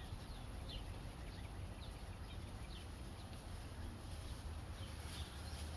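Small birds chirping repeatedly in short, high notes over a low, steady rumble.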